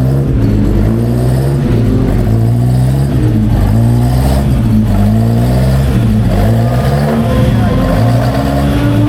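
Racing car engine running hard, its pitch rising and falling with the revs, then climbing steadily near the end as it accelerates.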